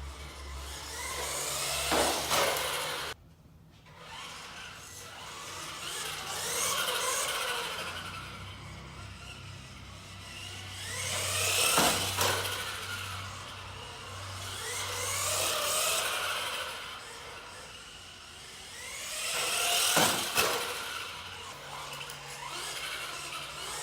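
Electric motor and drivetrain of a 1/18-scale Axial RC trophy truck whining up and down in pitch as it accelerates and slows, in repeated swells every few seconds, with a few sharp knocks.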